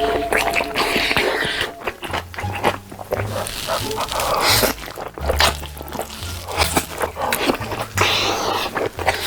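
Close-miked eating sounds: a run of crunching and crackling bites and chewing. Background music with a low bass line comes in about two seconds in.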